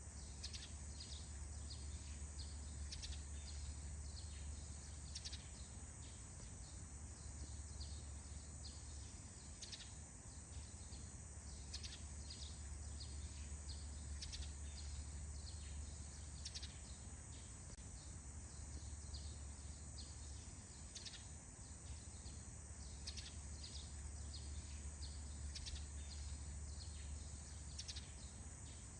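Dawn chorus of small birds: many short, high chirps sliding down in pitch, several every couple of seconds, over a faint steady low rumble and a thin steady high tone.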